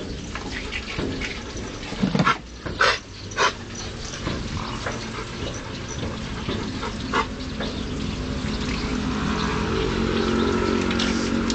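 Dog coughing: three sharp coughs in quick succession about two seconds in, and a weaker one near seven seconds. A steady low hum rises behind it in the second half.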